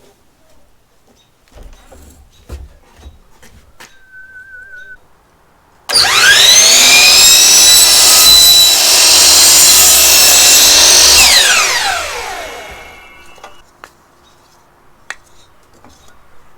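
Electric power saw, plausibly a miter saw cutting cedar herringbone boards, spinning up with a quickly rising whine, running steadily for about five seconds, then winding down with a falling pitch. Before it starts there are a few faint knocks of wood being handled.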